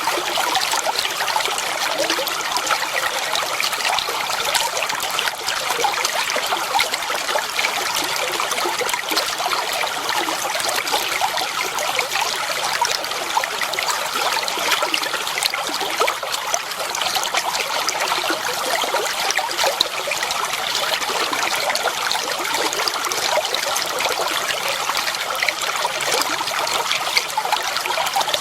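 Clear water flowing and trickling in a shallow stream, a steady babble of small splashes.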